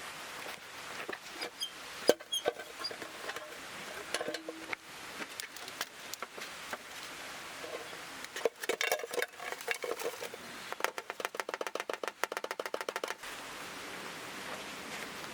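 Camp gear being handled: light knocks and small metallic clinks, then a fast, even run of clicks for about two seconds, over a steady background hiss.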